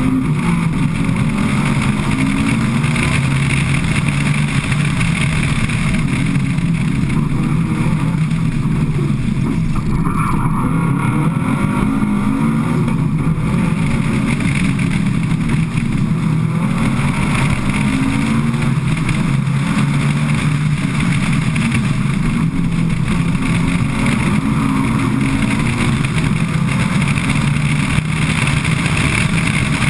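Subaru Impreza rally car's flat-four boxer engine driven hard on a stage, its note climbing and dropping again and again as the car accelerates and shifts gear, heard from a camera on the boot lid with steady wind and road noise.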